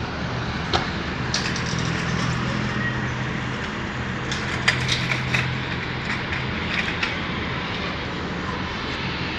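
Toyota Prado on the move, heard from inside: a steady low engine hum under road and tyre noise, with a few sharp clicks along the way.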